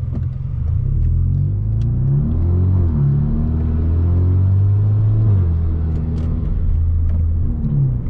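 Straight-piped 2017 Hyundai Veloster Turbo, muffler and resonator deleted, driving under acceleration, heard from inside the cabin. The exhaust note climbs in pitch and drops back a few times as the dual-clutch transmission changes gear.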